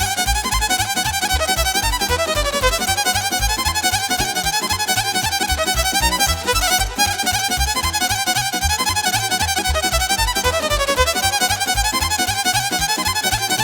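Instrumental break of live Romanian folk party music: a fast, ornamented violin melody over a steady bass beat.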